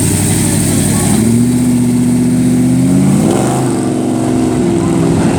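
A car engine running close by, revving up once about three seconds in, then holding a higher pitch.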